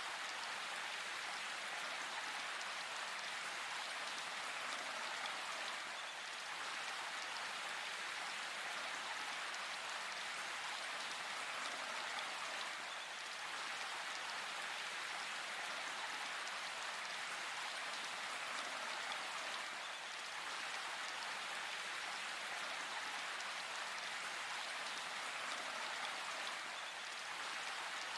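Steady rain falling in a forest, an even hiss of drops with no single drop or other sound standing out.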